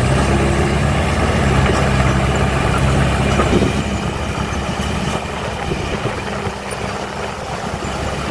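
Heavy diesel engine of earthmoving machinery running steadily, with a low hum that eases and grows quieter about halfway through.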